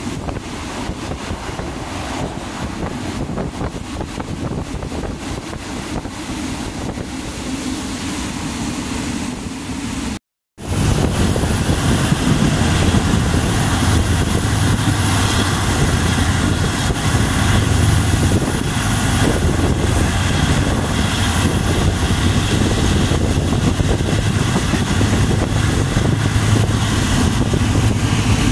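Passenger train running along the track, heard through an open coach window, with wind rushing over the microphone. About ten seconds in, the sound cuts out for a moment, then comes back louder with a steady low hum under the rumble.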